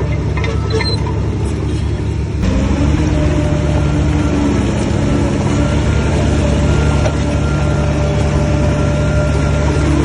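Heavy diesel engine of a Shantui crawler bulldozer running steadily, then revving up to a higher, louder pitch about two and a half seconds in and holding there. A few faint clicks come in the first two seconds.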